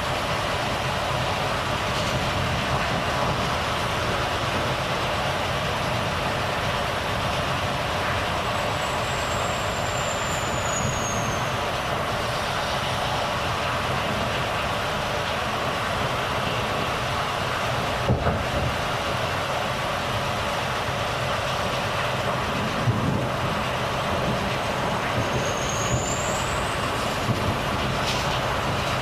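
Volvo FH truck on the move: steady engine and road noise. A brief high whistle falls about ten seconds in and another rises near the end, with a single sharp click in between.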